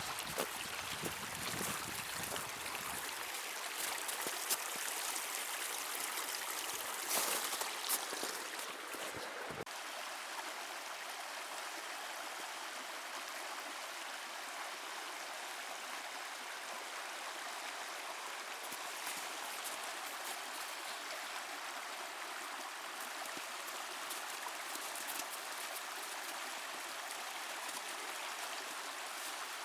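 Creek water rushing steadily. A few sharp knocks or crunches over it in the first ten seconds.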